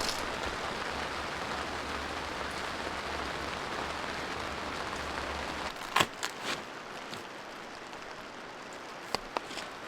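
Steady rain falling, with a low hum underneath that stops about six seconds in; a sharp knock follows, then lighter rain with a few scattered ticks.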